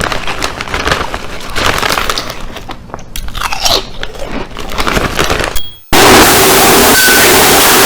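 Crunchy food being chewed, with irregular crunches and bites. About six seconds in it cuts off and a loud, steady rushing noise starts abruptly.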